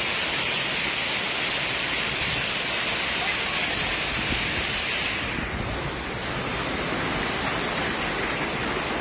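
Heavy rain pouring down in a storm, a dense steady hiss that eases slightly about five seconds in.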